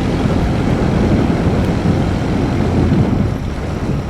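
Royal Enfield Bullet's single-cylinder engine running steadily while riding, under heavy wind noise on the microphone.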